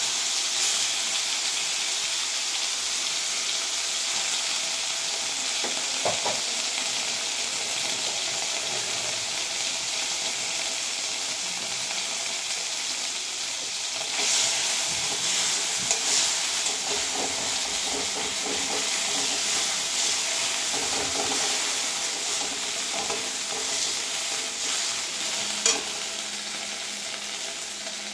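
Hilsa fish fat sizzling as it fries in a little hot mustard oil in a metal kadai. From about halfway, a metal spatula scrapes and turns it against the pan in short strokes.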